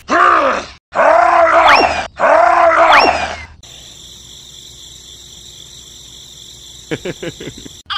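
Three loud, drawn-out groaning calls from an added sound effect, each rising and then falling in pitch, within the first three and a half seconds. A quieter steady high hum follows, with a few quick low sweeps near the end.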